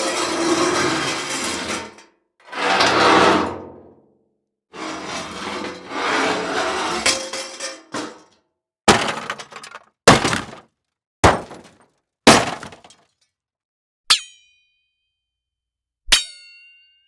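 A run of separate library impact sound effects. First come three long crashing, breaking sounds with scattering debris. Then come four sharp single hits about a second apart, and near the end two short ringing clinks.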